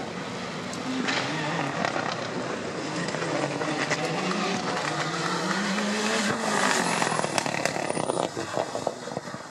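Rally car engine revving hard, its pitch climbing and getting louder as it accelerates, then lifting off near the end with a string of sharp exhaust crackles and pops.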